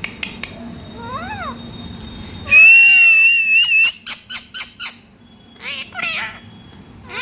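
Pet parrot calling: a short rising-and-falling call, then a long held whistle, the loudest sound, followed by a quick run of about six sharp chirps and two shorter calls near the end.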